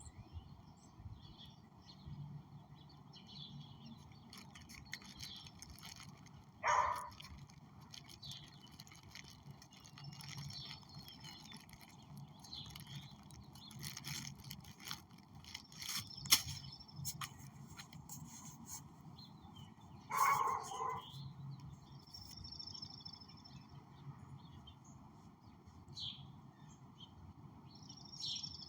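Outdoor ambience with faint bird chirps scattered throughout. Two short, louder sounds come about 7 and 20 seconds in, and a sharp click comes about 16 seconds in.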